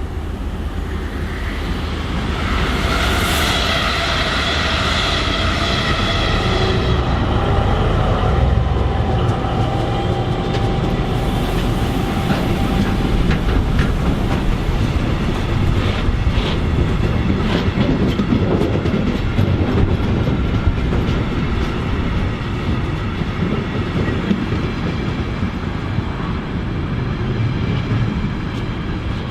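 Train passing close by on the line: a steady pitched whine over the first several seconds, then a continuous rumble of wheels on the rails with rapid clicks from the rail joints.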